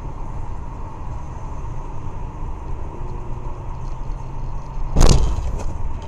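Steady road and engine rumble from a moving car, then about five seconds in a sudden loud bang of a vehicle collision, with some clattering just after it.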